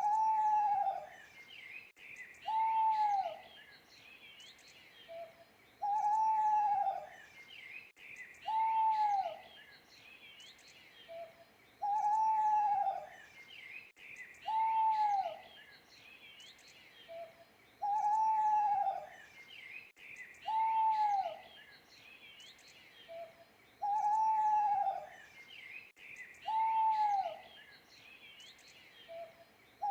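Owl hooting in repeated phrases: a short low note followed by two longer hoots that rise and fall, the phrase coming about every six seconds. Small birds chirp and twitter steadily behind it.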